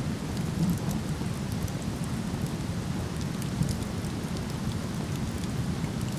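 A waterfall's steady rush, with faint, scattered crackles of a wood fire burning.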